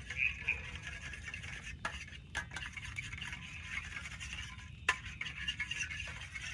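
Steady rain hiss, with a few sharp metallic clinks of cookware and utensils about two seconds in and again near five seconds.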